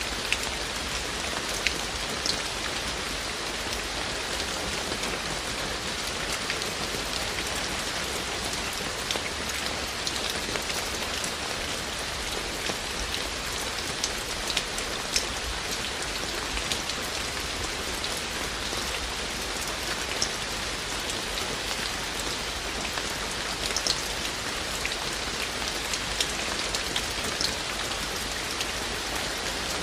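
Steady rain falling, an even hiss of dense drops with frequent sharper individual drop hits scattered through it.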